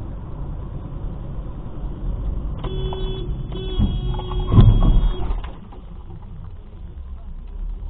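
Steady road and engine noise heard from inside a moving car, with a car horn sounding in two held blasts from about two and a half seconds in. A louder low surge comes partway through the second blast.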